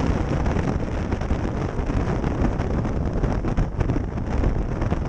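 Heavy wind buffeting on the microphone of a motorcycle at speed, with the bike's engine and road noise underneath.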